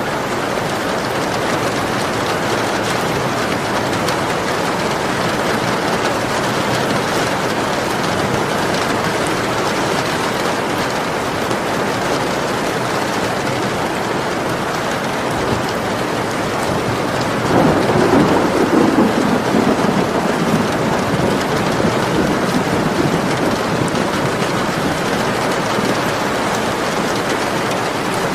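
Steady heavy rain falling, with a roll of thunder rumbling low about two-thirds of the way through, the loudest moment, fading out over a few seconds.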